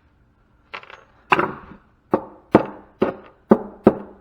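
Hand tool striking a scrap metal part as it is knocked apart: about seven sharp blows roughly half a second apart, starting under a second in, each with a short ring.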